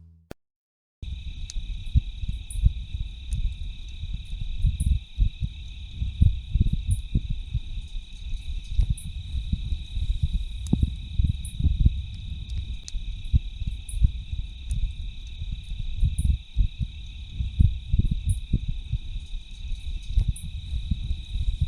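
Steady high-pitched insect chorus, starting about a second in, with an uneven low rumble underneath.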